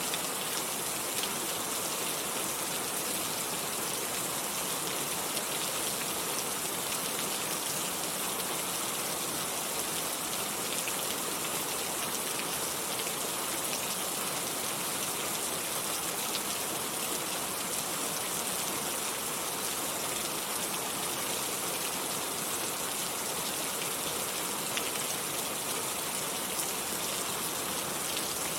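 Steady rain falling: an even hiss with scattered drop ticks. There is no thunder.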